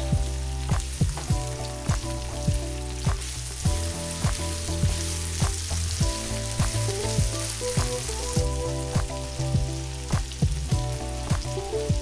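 Sliced red and green bell peppers sizzling as they fry in olive oil in a nonstick pan, stirred with a silicone spatula. Background music with a steady beat plays underneath.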